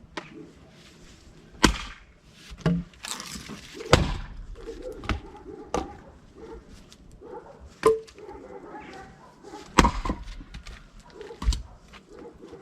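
Irregular knocks, clacks and scraping of tools and small parts being handled during a chainsaw repair, with about eight sharp hits spread unevenly.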